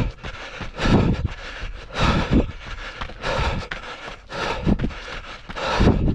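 Wind and movement noise on a trail runner's microphone, coming in rushes a little over a second apart.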